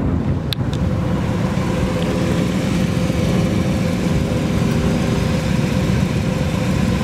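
1967 Camaro's 327 V8 idling steadily through headers and dual exhaust. A short click sounds about half a second in.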